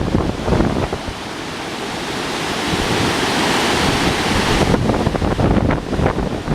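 Swollen river rushing in flood, high from typhoon rain, as a steady loud wash of water noise. Gusts of wind buffet the microphone, heavier near the end.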